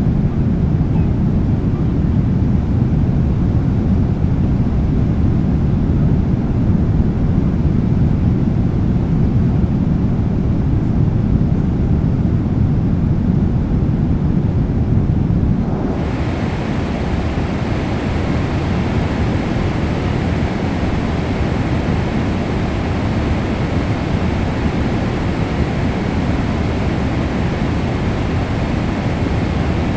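Steady roar of a Boeing 777-300ER's cabin in flight, the rumble of its jet engines and rushing airflow heard from a passenger seat. About halfway through the sound changes suddenly: the deep rumble eases a little and a brighter hiss comes in on top.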